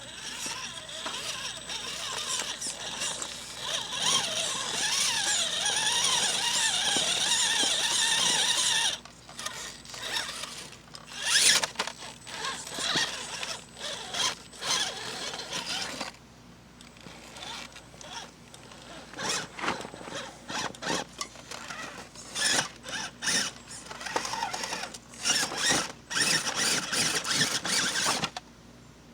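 Scale rock crawler truck's electric motor and drivetrain gears whining, with a wavering pitch as the throttle changes. It runs steadily for about nine seconds, then in many short bursts of throttle, and stops near the end.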